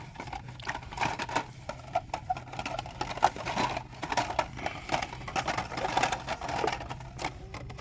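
Irregular plastic clicking and rattling of carded Hot Wheels blister packs being flipped through and handled on store pegs, over a faint steady hum.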